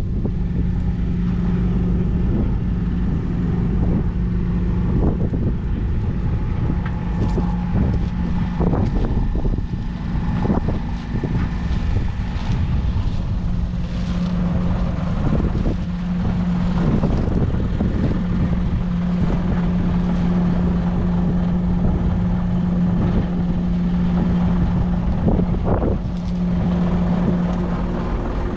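JCB Fastrac 4220's 6.6-litre six-cylinder diesel engine running at a steady speed, a constant drone with a few light knocks over it.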